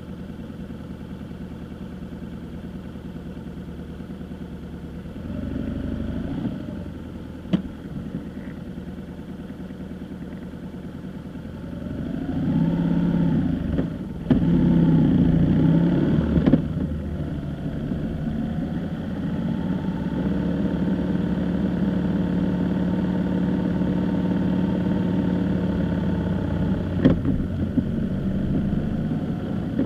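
A vehicle's engine running on the move, getting louder and rising and falling in pitch as it accelerates and eases off partway through, then holding a steady drone. Two short sharp clicks stand out.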